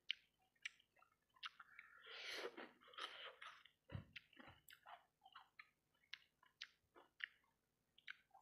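Close-up chewing of fried rice balls coated in sauce: wet mouth smacks and sharp clicks, with a longer, denser wet stretch about two seconds in and a low thump about four seconds in.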